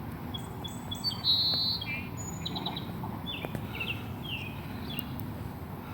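Birds calling: a string of short, high chirps and a brief trill, over a steady low background rumble.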